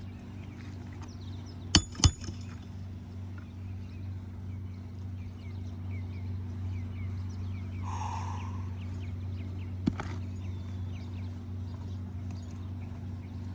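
Hammer strikes driving roofing nails into an asphalt shingle: two sharp blows in quick succession about two seconds in, then a lighter one near ten seconds. A steady low hum runs underneath.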